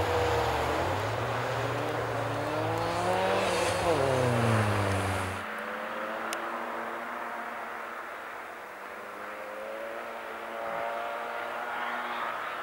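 Car engines revving up and down as the cars drift on ice, the engine note rising and falling with the throttle. Partway through, the sound cuts to a quieter stretch of engines revving.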